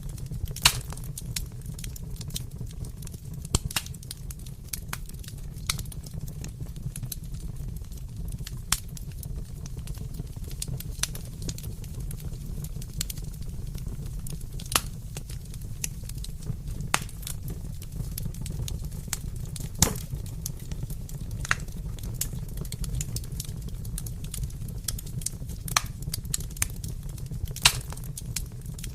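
Wood fire crackling in a fireplace: irregular sharp pops and snaps over a steady low rumble of the burning fire, with a few louder pops, one about twenty seconds in.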